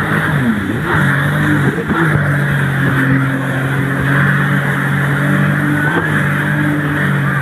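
Motor engine running at a steady speed with a constant rush of wind or water noise; the pitch wavers briefly in the first couple of seconds.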